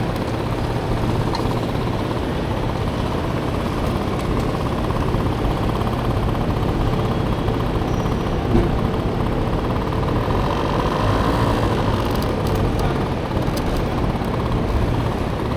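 Small scooter engine of a Honda Motocompo, swapped for a Honda Dio engine, running steadily under way.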